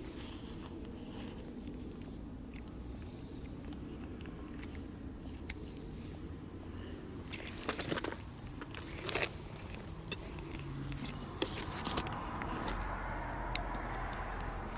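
Quiet handling noise: scattered small clicks and scrapes over a low steady background, picking up a little near the end.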